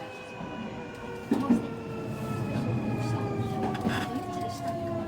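Hitachi SiC VVVF inverter on a Semboku 9300 series train whining in several tones that slide slowly down in pitch as the train brakes into a station, over the running rumble of the wheels. A couple of knocks come about a second and a half in.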